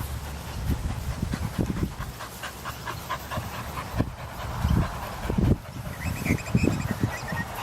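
A dog panting quickly and steadily after running.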